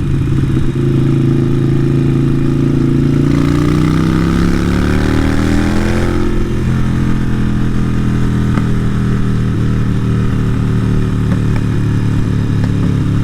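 Harley-Davidson Sportster 883 Iron's air-cooled V-twin running through a Vance & Hines exhaust. About three seconds in it accelerates, its pitch rising for about three seconds, then drops back and runs at a steady lower pitch.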